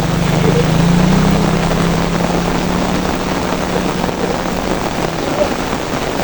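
Rain falling steadily in an even hiss, with a low hum underneath that swells about a second in and fades out about five seconds in.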